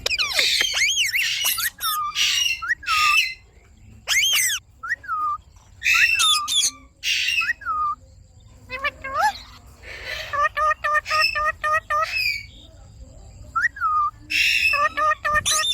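Indian ringneck parakeet calling: a string of short, sharp screeches and whistled notes that drop in pitch, with a fast run of repeated chattering notes about two-thirds of the way through.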